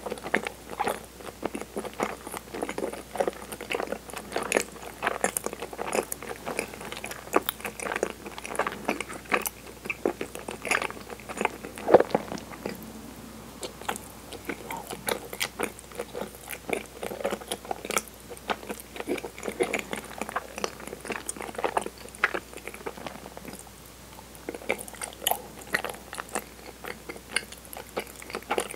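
Close-miked chewing of soft, sticky chigiri mochi: a dense run of small, irregular wet mouth clicks, with one sharper click about halfway and a quieter stretch a few seconds before the end.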